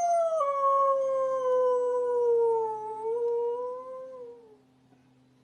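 A dog howling: one long howl that slides slowly down in pitch, lifts briefly near the end, then stops about four and a half seconds in.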